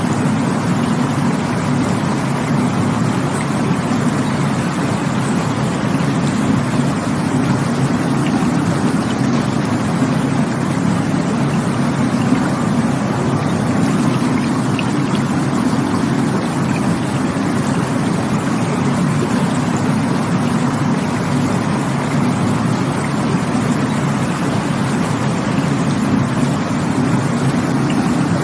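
Rushing water running steadily, a continuous even rush weighted toward a low rumble.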